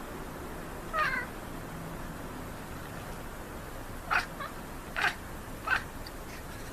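Domestic cat chirping at birds: one short trilled call about a second in, then three brief chirps around the fourth to sixth second.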